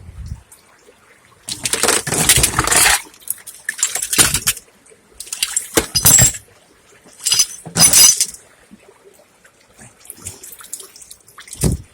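Splashing and sloshing of cold floodwater as a person moves through it, in separate bursts a second or two apart.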